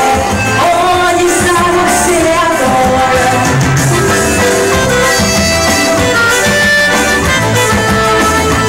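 Forró band music: a reed-toned lead, in forró typically the accordion, plays a melody over a steady low drum beat.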